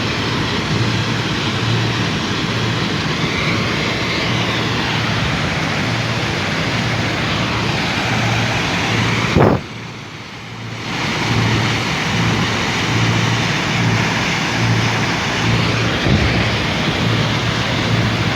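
A hammer crusher for stone running, with a loud, steady mechanical noise over a pulsing low hum. About halfway through there is one sharp bang, then the sound drops away for about a second and builds back up.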